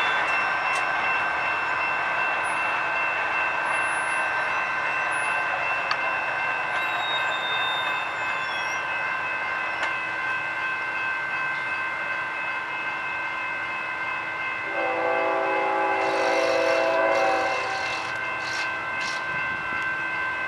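BNSF freight train at a grade crossing, with steady high-pitched ringing tones throughout. A locomotive horn sounds about 15 seconds in and lasts two to three seconds.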